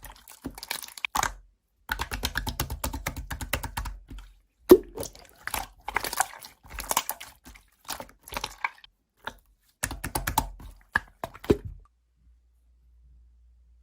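Rapid clicking and tapping in quick runs with short gaps, stopping about twelve seconds in.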